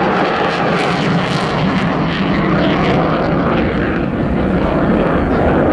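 Aircraft flying past at an airshow, a loud, steady engine roar.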